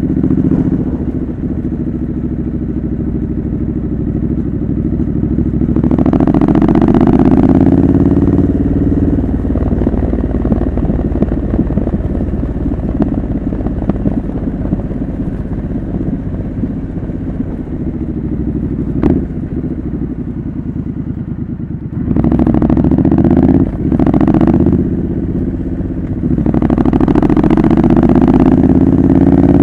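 Triumph Scrambler 900's parallel-twin engine through a homemade custom exhaust while riding, the revs rising under acceleration about six seconds in, again past two-thirds of the way and near the end, with a single sharp click in between. Wind buffets the microphone.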